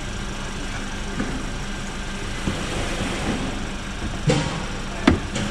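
A car engine idling steadily, with a few short knocks or clicks near the end.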